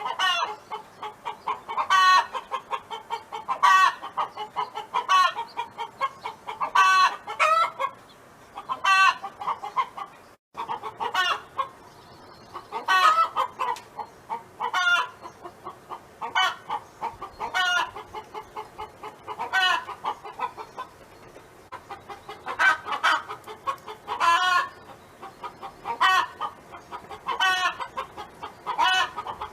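Domestic hen clucking and calling repeatedly, a run of pitched, wavering calls every second or two: the drawn-out hen 'song'.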